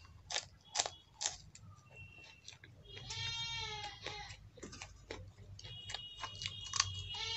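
Sharp crunches of raw green chillies being bitten and chewed, three about half a second apart near the start. Later a long, wavering, high-pitched sound comes in twice and is the loudest thing.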